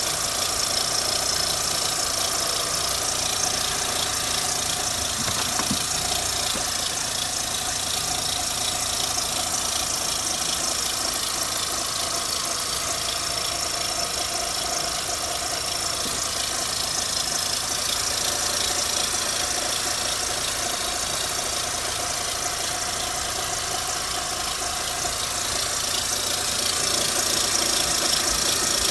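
A 2004 Mitsubishi Lancer Ralliart's 2.4-litre four-cylinder engine running steadily, with a strange noise that the owner cannot place. It gets slightly louder near the end.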